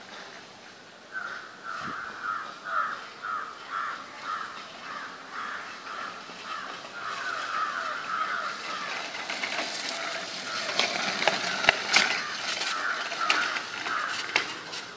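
A bird calling over and over in a steady series, about three calls a second, with several sharp clicks and knocks in the later part.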